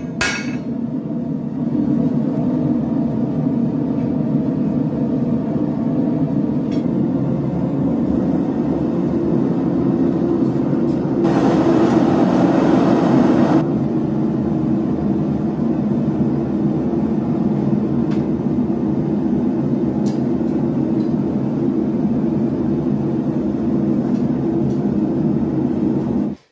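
Forge running with a steady low rumble, as a blade heats between bouts of hammering. Near the middle a wider hiss of air swells for a couple of seconds.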